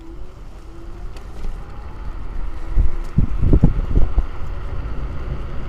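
Wind rumbling and buffeting the microphone while riding an electric scooter, with heavier gusts about halfway through.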